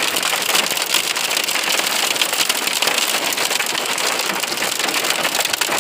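Heavy storm rain pelting down steadily: a dense, loud hiss made of countless small drop impacts.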